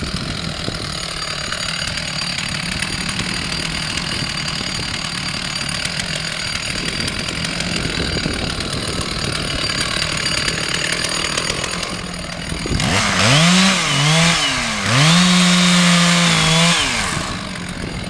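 Two-stroke chainsaw running steadily, then revved hard twice near the end, its pitch rising and dipping as it bites into wood, before dropping back.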